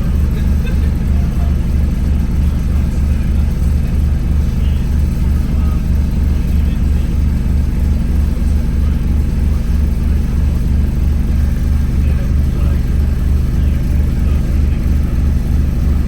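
Gemini 2 hybrid double-decker bus heard from on board while on the move, its engine running as a steady low throb with a regular pulse.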